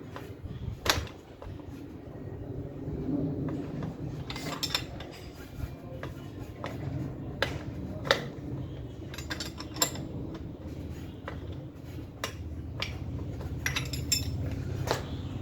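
Scattered metal clinks and knocks from tools and bicycle parts being handled during assembly, a dozen or so at uneven intervals, over a steady low hum.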